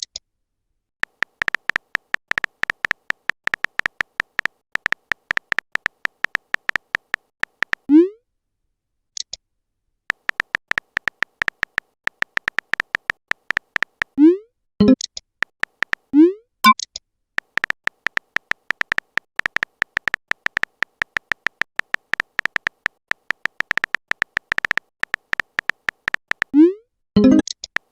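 Chat-app sound effects: long runs of rapid keyboard-typing clicks as messages are typed out, broken by short pauses, with a short rising pop about four times as each message is sent.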